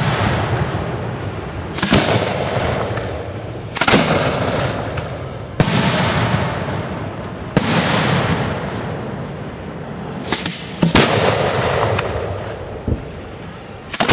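Fireworks shells going off in quick succession, a loud sudden bang about every two seconds, each trailing off in a long fading rumble.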